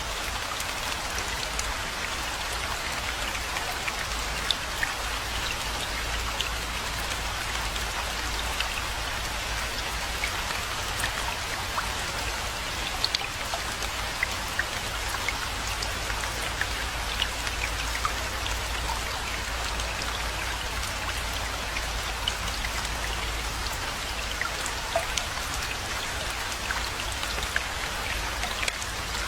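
Steady rainfall hitting surfaces, a constant patter with individual drops ticking sharply all through, over a low steady rumble.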